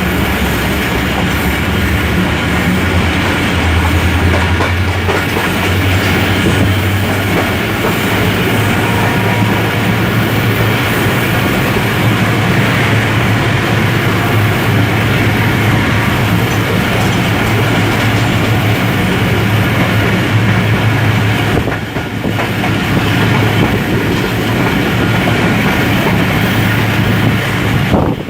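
Passenger train running along the track, a steady noise of wheels on rails, briefly dipping about three-quarters of the way through.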